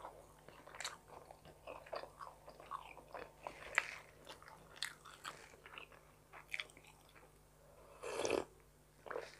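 A person chewing a mouthful of homemade pizza, with many short wet clicks and crunches, then a slurping sip of tea about eight seconds in.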